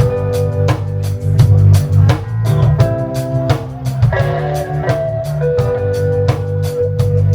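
A live reggae band playing an instrumental lovers rock passage. A heavy bass line and held guitar or keyboard chords run under a drum kit keeping a steady beat.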